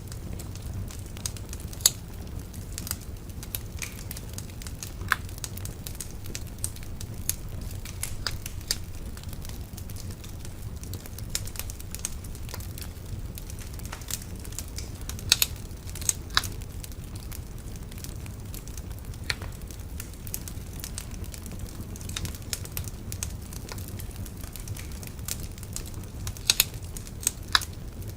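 A wood bonfire burning, with a steady low rumble and irregular sharp crackles and pops, a few of them louder.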